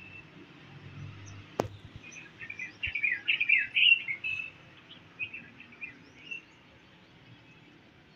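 Birds chirping in a run of quick, twittering notes that peaks a few seconds in and then thins out. A single sharp click comes about a second and a half in.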